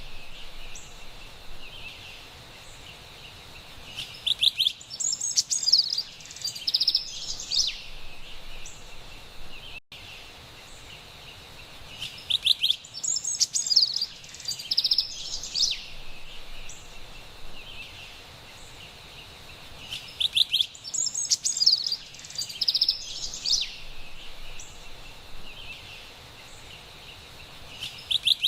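Carolina wren singing: bursts of quick, repeated ringing phrases come about every eight seconds over a steady faint hiss of forest ambience.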